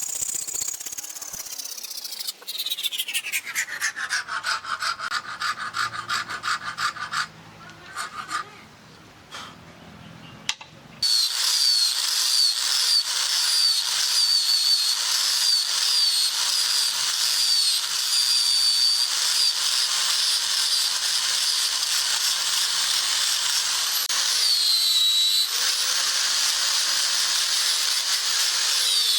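An electric power tool winds down with its pitch falling, goes quiet, then starts again about eleven seconds in and runs steadily with a high whine. The whine dips briefly near the end, as if the tool is under load.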